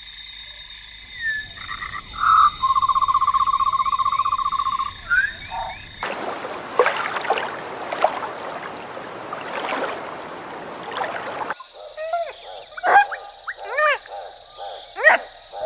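Frogs calling, in three back-to-back clips that change abruptly: first a steady high drone with a fast pulsed trill, then a dense chorus of croaks, then separate rising-and-falling chirping calls.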